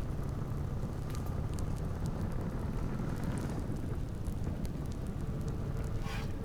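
Campfire burning: a steady low rush of flames with scattered sharp crackles and pops.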